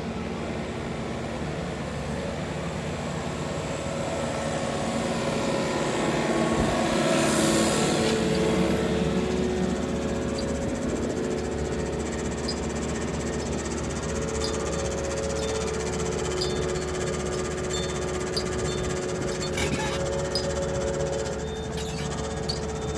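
Horizontal boring rig's engine running steadily under load while boring a hole under a road, louder for a few seconds around a quarter of the way in.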